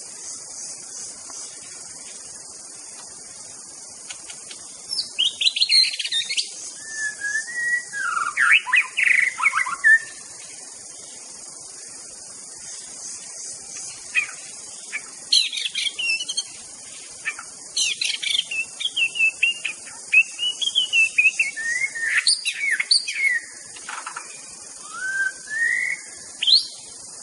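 White-rumped shama singing: phrases of quick, varied whistles and chattering notes, starting about five seconds in and coming in several bursts with pauses between them. A steady high insect buzz runs underneath.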